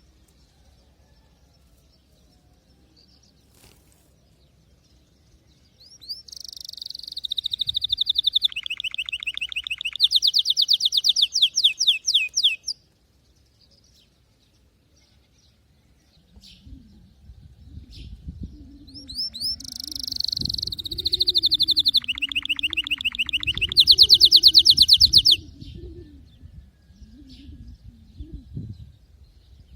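Domestic canary singing two long song phrases, each a run of fast trills of repeated notes that shift pitch from one trill to the next, ending abruptly. A low wavering hum sits under the second phrase.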